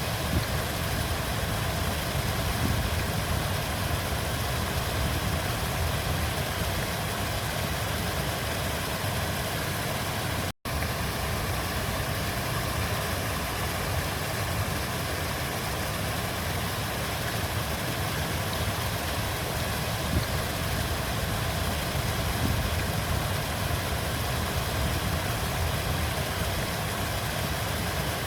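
Steady rushing of a flowing river, a low rumble with a hiss over it, broken by a split-second dropout about ten seconds in.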